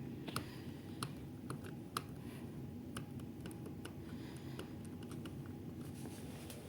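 Daikin air conditioner running with a steady hum, with a string of irregular light clicks over it.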